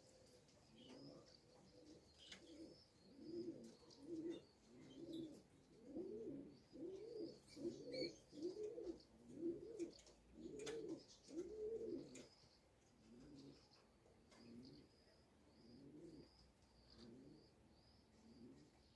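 Racing pigeons cooing softly: a long run of coos, each rising and falling in pitch, about one and a half a second, loudest in the middle, with faint small-bird chirps above.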